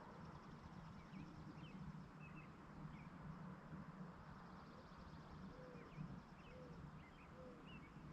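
Faint rural evening ambience: small birds chirping in short scattered notes. In the second half come three low, arched calls about a second apart, all over a steady low rumble.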